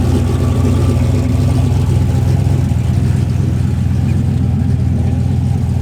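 A car engine idling steadily, an even low rumble with no revving.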